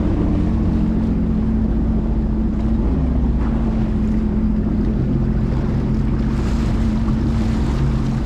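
Jet ski engine running steadily, with a constant low hum and wash of water and wind noise.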